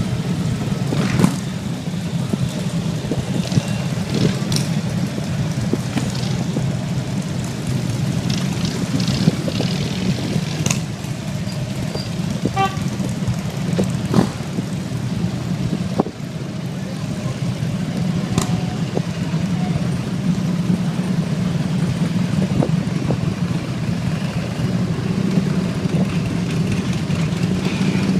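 A group of motorcycles running with a steady low rumble, with scattered sharp knocks and a short horn toot about halfway through.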